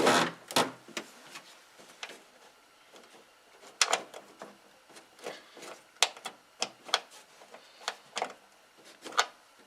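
Scattered light clicks and knocks, irregular and several seconds apart in places, from a snowmobile hood and its bungee hood latches being handled and fitted.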